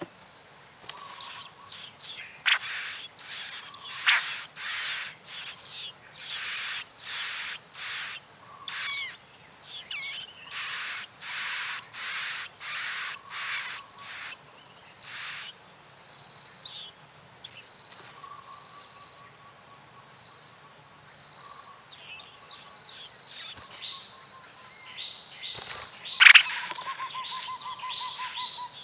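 Insects trilling steadily in a rapid, high-pitched pulse, with runs of short scratchy calls over it and a few sharp clicks.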